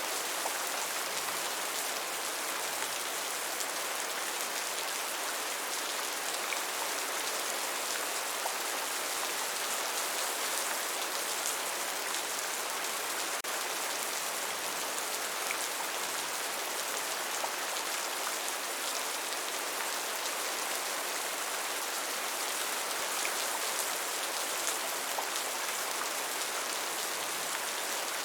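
Steady rain: an even hiss of rainfall with the fine patter of individual drops.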